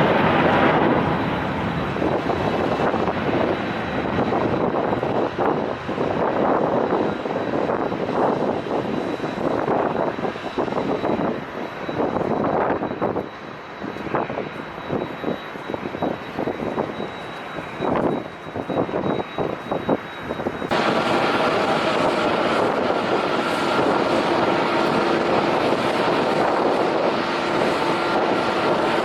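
Airliner engines at takeoff power, a loud rumbling roar that swells and dips, with gusts of wind buffeting the microphone. About two-thirds of the way through, the sound switches abruptly to a steadier engine noise with a few steady tones in it.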